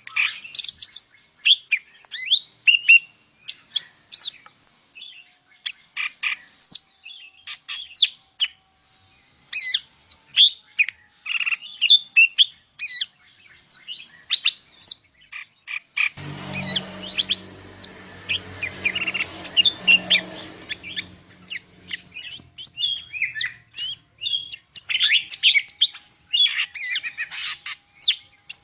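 Greater green leafbird (cucak ijo) singing a long, rapid run of varied high chirps and whistles, a full-repertoire song rich in mimicked phrases. A low rumble sits under the song for several seconds past the midpoint.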